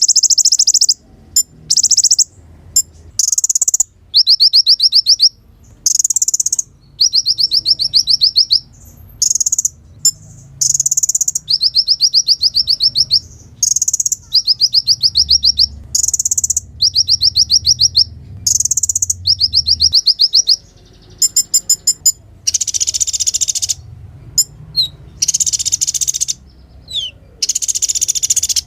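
Kolibri ninja sunbird singing: a string of high, rapid trilled phrases about a second each, separated by short pauses. Near the end come harsher, buzzier phrases and a few short falling whistles.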